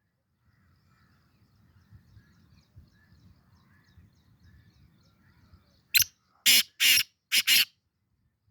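Black francolin (kala teetar) calling: a loud, harsh phrase of five short notes about six seconds in, after several seconds of faint chirping from other birds over a low rumble.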